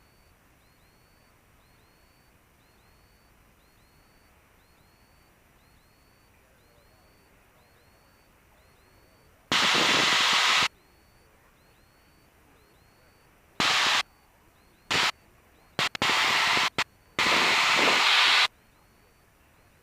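Bursts of loud radio static hiss that start and stop abruptly: a long one about halfway through, then a quick run of shorter and longer bursts near the end, over a faint steady hiss from the aircraft's radio and intercom audio.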